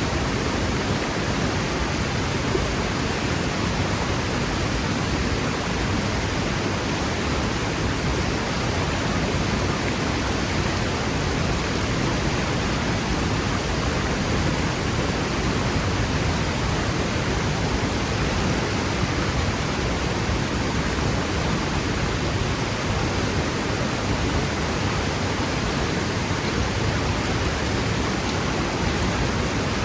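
Waterfall crashing into its plunge pool: a loud, steady, unbroken rush of falling water.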